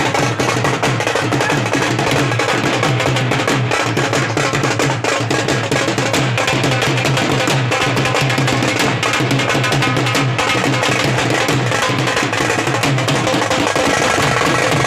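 Loud percussion-heavy music: fast, dense drumming with sharp wood-block-like strikes.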